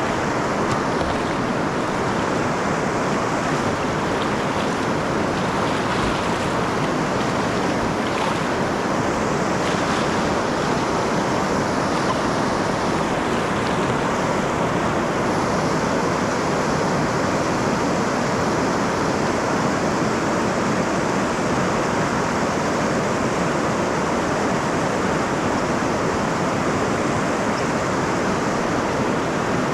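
Snoqualmie River water rushing, a steady, even noise that does not change.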